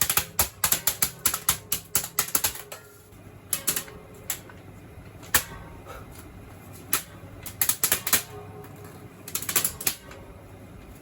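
Spinning ceiling fan blades slapping a paper plane held into them, a fast run of sharp paper slaps at about five or six a second for the first three seconds, then short clusters of slaps every second or two. The fan motor hums faintly underneath.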